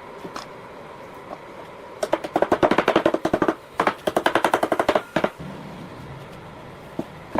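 Two bursts of rapid sharp tapping, about ten taps a second, each lasting over a second.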